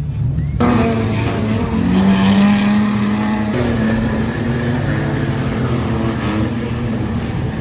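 Wingless sprintcar engines running on a dirt speedway, several cars together, their pitch wavering and shifting as they lap. The sound starts abruptly about half a second in.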